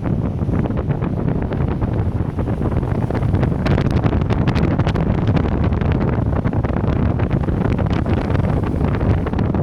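Wind buffeting the microphone: a loud, steady rumble with crackles that come thickest a little past the middle.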